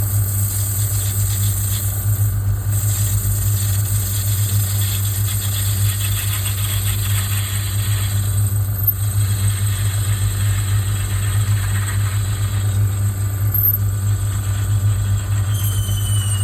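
Metal lathe running steadily with a constant motor hum and a high whine above it. Near the end a whine begins falling in pitch.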